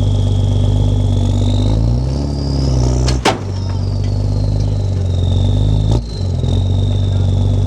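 Unimog truck engine running hard under load and revving up about two seconds in, with a high whine that rises and falls. A sharp bang comes about three seconds in, and a lighter knock near six seconds.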